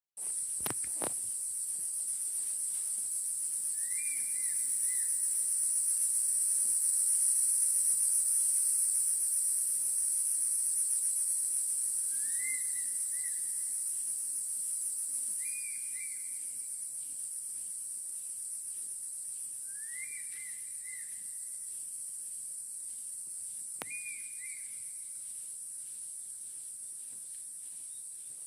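A steady, shrill chorus of insects, the loudest sound throughout. Over it an eagle gives a short whistled call five times, a few seconds apart. There are a few sharp clicks near the start and again near the end.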